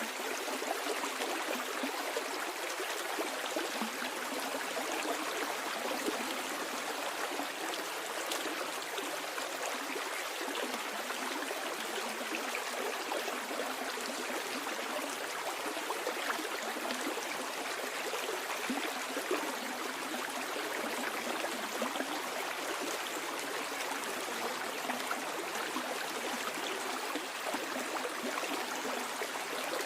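Stream water flowing downstream over stones, a steady rushing with light gurgles and trickles.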